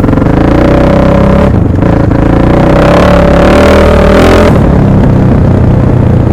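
1998 Husaberg FC600's big single-cylinder four-stroke engine revving hard, with two brief dips about a second and a half and two seconds in. It climbs to its loudest around four seconds in, then cuts off suddenly at the end.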